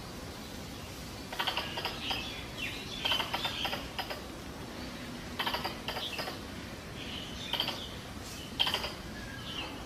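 Squirrel mating-season calls used as a lure: five short bursts of rapid clicking chatter mixed with chirps, each under a second long and about one to two seconds apart.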